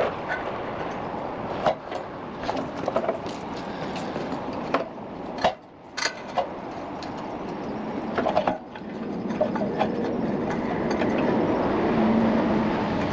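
Scattered clinks and knocks of hand tools and metal engine parts being worked, over a steady rushing background noise that swells near the end.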